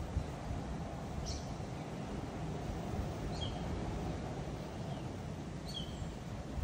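A steady low background rumble with a few short, high bird chirps, about three, spaced a couple of seconds apart.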